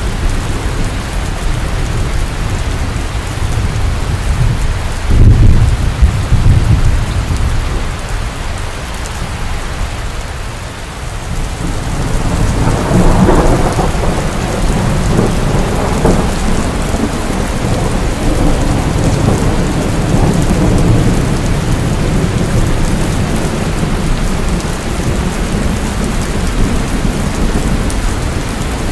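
Steady rain with thunder: a sudden loud low boom about five seconds in, then a longer rolling rumble from about twelve seconds on.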